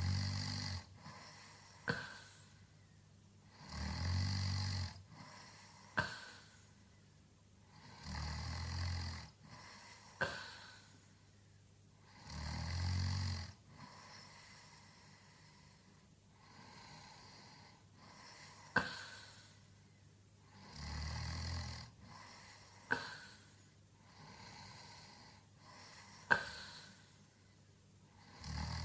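A sleeping man snoring: a low, rattling snore about every four seconds, with one longer pause of several seconds midway. A short sharp puff of breath falls between the snores, and the sharpest are the loudest sounds present.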